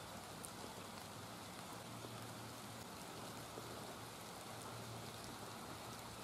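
Light steady rain falling, an even faint hiss with scattered small drop ticks.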